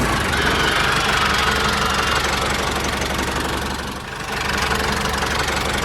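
Tractor engine running steadily with a knocking beat, dipping briefly about four seconds in.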